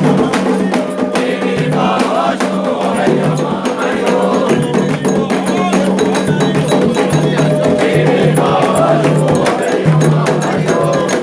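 Candomblé ritual music: atabaque hand drums led by the rum drum, with a metal bell keeping a steady pattern and voices singing over it.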